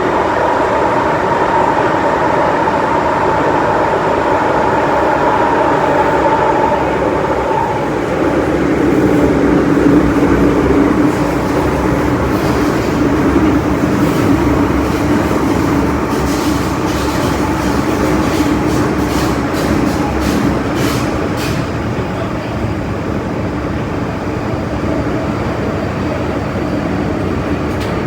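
An MTR Metro-Cammell M-Train electric multiple unit running between stations, heard on board. Its steady motor tone shifts lower about eight seconds in. A run of sharp wheel clicks over the track comes about two-thirds of the way through.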